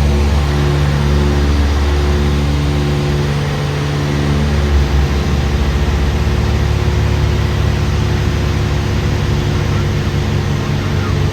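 Light single-engine propeller airplane's piston engine and propeller droning steadily as heard from inside the cabin, with the engine note shifting about four seconds in.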